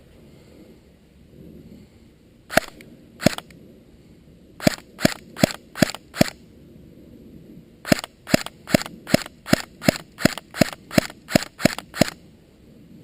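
Airsoft gun firing single shots in quick succession: two shots, then a string of five, then a run of about a dozen at roughly two to three a second.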